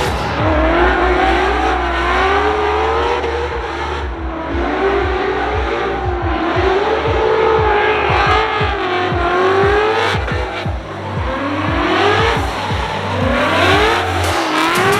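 Drift car being driven hard, its engine revving up and down continuously with squealing tires.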